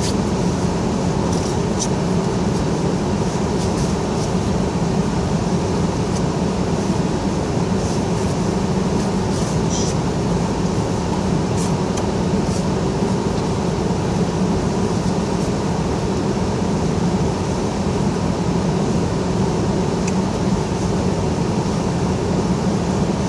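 A steady low mechanical hum, unchanging throughout, with a few faint high ticks.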